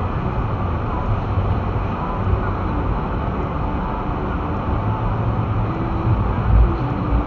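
Steady low rumble of a vehicle's engine and road noise, heard from inside the cabin, while it creeps through deep snow. A low thump comes about six and a half seconds in.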